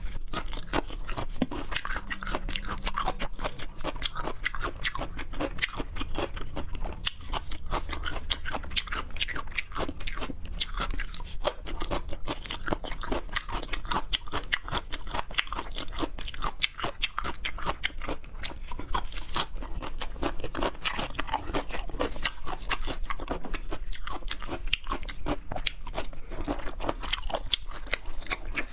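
Close-miked chewing of seafood: a steady run of wet, crunchy bites and mastication with dense rapid crunches throughout.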